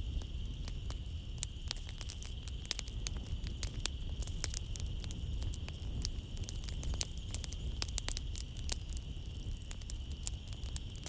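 Wood fire crackling in a fireplace, with frequent irregular sharp pops and snaps over a low steady rumble. A steady high chirring of night insects runs beneath it.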